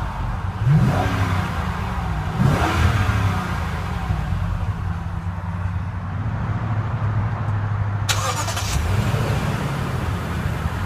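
The 2015 Lexus GX 460's 4.6-litre V8 is revved twice in quick blips, then settles to a steady idle. A short hiss comes about eight seconds in.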